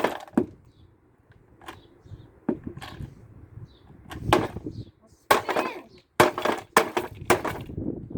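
Hard plastic parts of a kids' ride-on toy car knocking and cracking, with a string of sharp, irregular impacts that bunch closer together in the second half.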